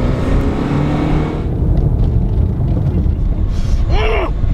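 Truck moving at speed, a heavy low rumble of engine and road noise. Near the end a short rising-then-falling tone cuts through.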